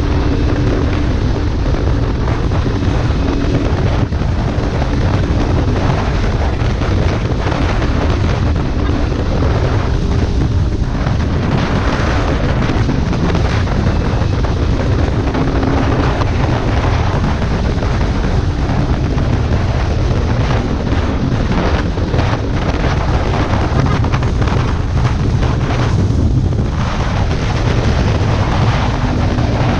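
Heavy wind noise on the microphone over a Kawasaki Ninja 400's parallel-twin engine running steadily through a modified exhaust while riding. The wind is the loudest sound throughout, and the engine comes through as a faint steady drone beneath it.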